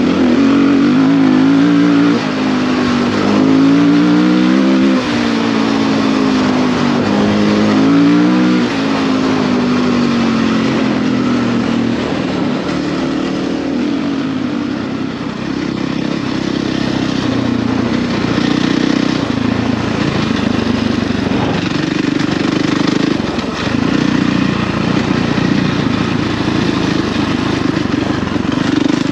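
Husqvarna FE450 single-cylinder four-stroke dirt bike engine running under load on a trail ride. It revs up and down several times through roughly the first nine seconds, then runs at a steadier, rougher pitch.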